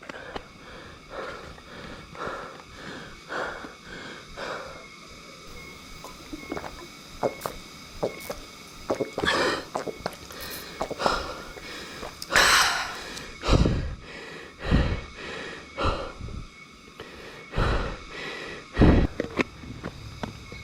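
A cyclist breathing hard, out of breath from the ride: a run of loud, uneven breaths and gasps, about one a second.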